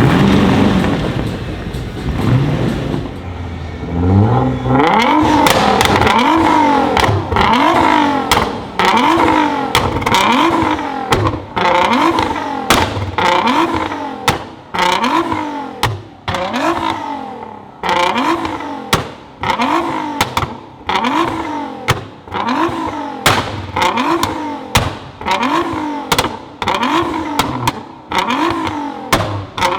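A tuned sports car engine being blipped over and over, roughly once a second: each rev climbs quickly and falls away, followed by sharp exhaust pops and cracks. For the first few seconds the engine runs low before the revving starts.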